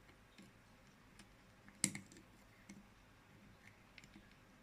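Faint, scattered light clicks of a multimeter probe tip tapping and sliding over component pins on a circuit board, with one sharper click about two seconds in. No continuity beep sounds.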